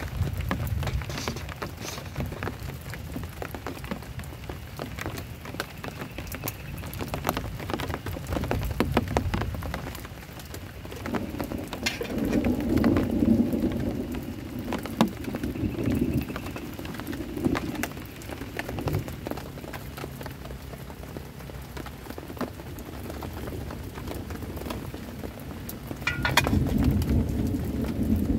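Heavy rain falling on a camp shelter, with dense drop ticks throughout. Low rumbles of thunder swell up near the middle and again near the end.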